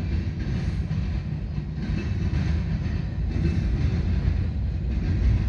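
Norfolk Southern manifest freight train rolling past, its freight cars making a steady low rumble on the rails.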